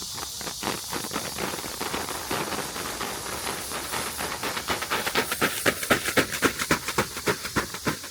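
Cicadas shrilling as a steady high hiss, with a rhythmic pulsing that quickens and grows louder from about five seconds in.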